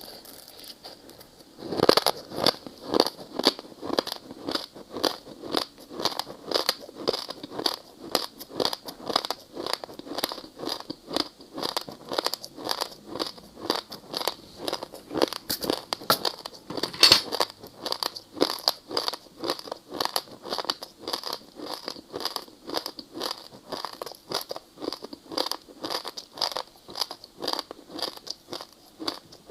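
Close-up crunching of ice being bitten and chewed: a steady run of sharp crunches about two a second, starting about two seconds in, with one louder crunch about halfway through.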